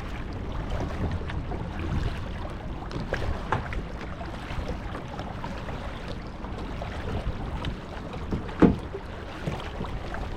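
Kayak being paddled: steady water and wind noise with a few short knocks and splashes from the paddle, the loudest about eight and a half seconds in.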